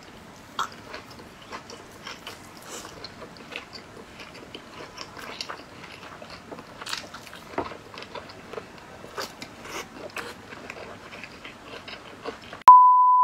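Close-up chewing and biting of braised meat: many short wet clicks and smacks of the mouth. Near the end a loud steady beep sounds for about half a second.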